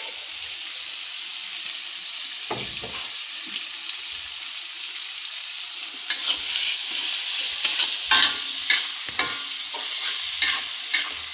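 Spice paste of shallots, garlic and tomato sizzling in hot oil in an aluminium wok, while a metal spatula scrapes and knocks against the pan as it is stirred. The sizzle grows louder about six seconds in, and from then on the spatula clicks against the pan come often.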